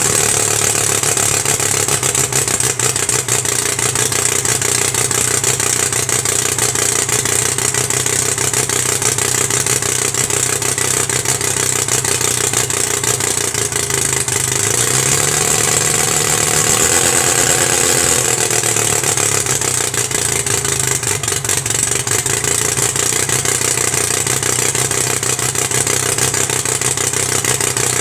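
Homemade radial engine running on a new exhaust system, fitted to cure its rough running at low revs. Its speed rises about halfway through and falls back to a slower steady run.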